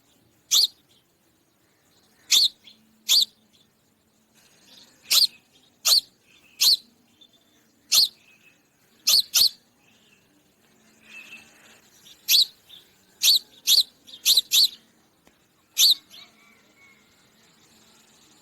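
Sparrow chirping: about fifteen short, sharp single cheeps at irregular gaps, some in quick pairs.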